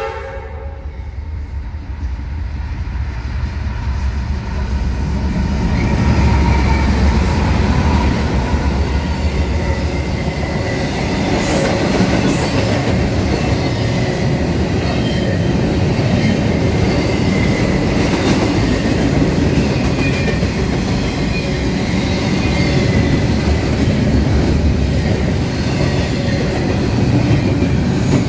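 Double-stack intermodal freight train passing close by. The rumble builds over the first six seconds as the lead locomotives come by, then holds as a steady rumble and clatter of the well cars' wheels on the rails, with faint wheel squeal.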